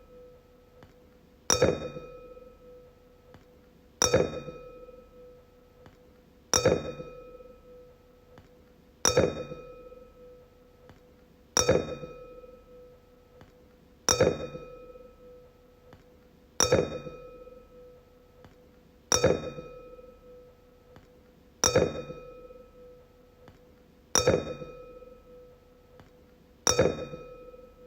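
A wine glass struck over and over, about once every two and a half seconds, each tap a bright clink that rings on at one clear pitch and fades before the next.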